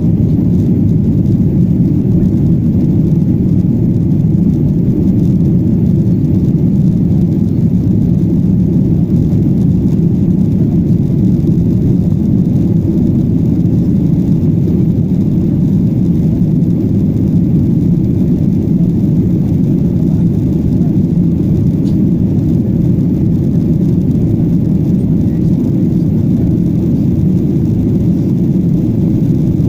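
A jet airliner's engines and rushing air make a steady, loud, low rumble that holds the same level and pitch throughout.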